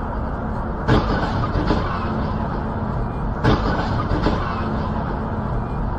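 Steady road and engine noise of a car being driven, with two sharp knocks, about a second in and again about three and a half seconds in.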